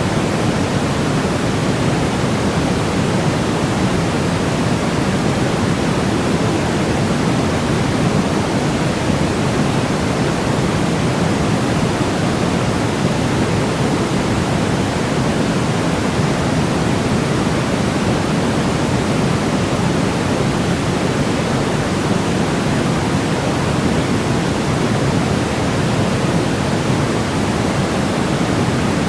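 Steady, unchanging electronically generated white noise for baby sleep, a smooth hiss weighted toward the low end with no breaks or changes.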